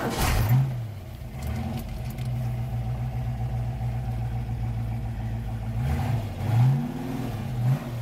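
1967 Shelby GT350's 289 Hi-Po V8 with its original Hi-Po cam, running at a steady idle and revved briefly about half a second in and twice more near the end, heard from inside the car.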